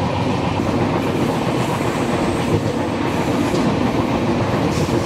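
Moving express train running along the track: steady wheel-and-rail noise of the coaches, heard from the open doorway of a moving coach.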